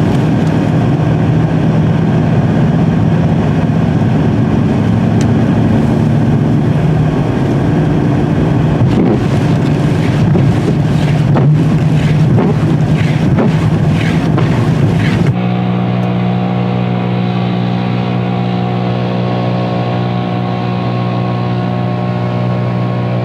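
Truck engine running with a steady drone. About fifteen seconds in the sound changes abruptly to a smoother, more muffled hum.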